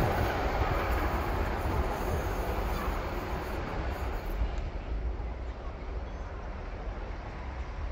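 Passing train rolling away along the track, its rushing wheel-and-rail noise fading steadily over the first few seconds, leaving a low rumble.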